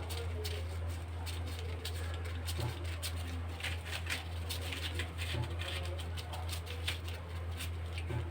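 Baby parrots scrabbling and making short clicking and squeaky begging sounds, excited for handfeeding formula, over a steady low hum.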